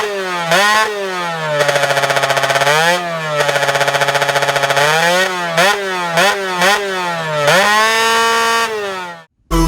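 Yamaha F1ZR two-stroke single-cylinder engine, modified and fitted with a Malaysian-style exhaust, revved in repeated quick throttle blips. It is twice held at high revs for over a second with a fast rattle in the note. Near the end comes one long rev that cuts off suddenly.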